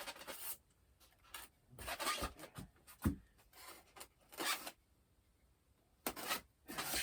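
Short, scattered spells of rustling, rubbing and scraping as things are handled, with quiet gaps between them and a dull thump about three seconds in.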